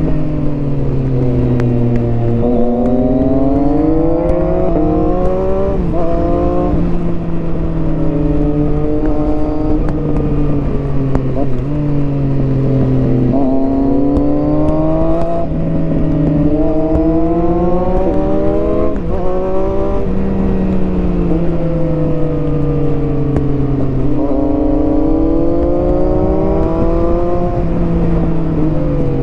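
Triumph Street Triple 675R three-cylinder engine through an HP Corse Hydroform exhaust, accelerating hard through the gears several times. The pitch climbs steadily, drops sharply at each upshift, and sinks more slowly as the rider rolls off between pulls.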